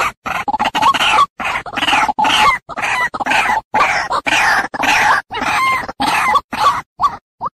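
White-breasted waterhen (ruak-ruak) calling: a fast, unbroken run of harsh notes, two to three a second. Near the end it breaks into short, single notes about half a second apart.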